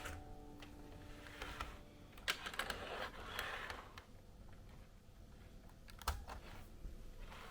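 Light, irregular clicks of small hard items being handled, with a short rustle about three seconds in, as the tail of background music fades out in the first two seconds.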